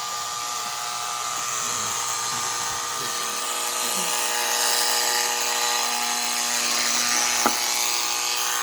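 Lionel Polar Express toy train running on its track: a steady electric motor whine with wheels rolling on the rails. A single sharp click sounds near the end.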